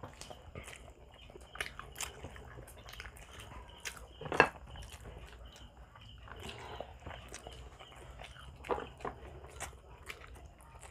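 Close-up eating sounds: biting and chewing grilled barbecue and rice, with scattered wet smacks and clicks. The loudest comes about four and a half seconds in.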